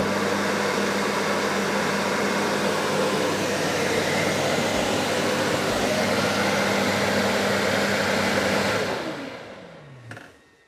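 Narwal Freo Z Ultra base station's dust-collection (auto-empty) suction motor running, a loud rush of air over a steady hum, as it empties the robot's dustbin. About nine seconds in it spins down with a falling whine and stops with a click.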